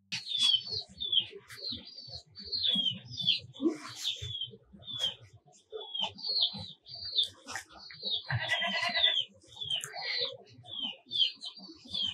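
Small birds chirping over and over in short, high, falling notes, with a longer, buzzier call about eight seconds in.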